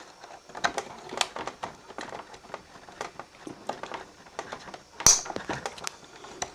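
Small metal clicks and scrapes as a projector's clutch and drive shaft are worked loose by hand, with one sharp click about five seconds in.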